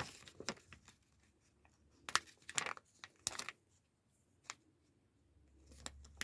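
A sticker being peeled from its paper sheet and handled: a few short papery rustles and peeling sounds, spaced apart.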